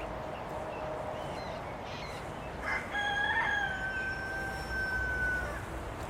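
Rooster crowing: one long crow starting about three seconds in.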